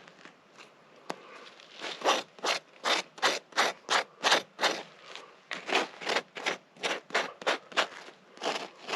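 A striker scraped hard down a ferrocerium (ferro) rod again and again, throwing sparks: quick scraping strokes, about two or three a second, that start about two seconds in after a single click.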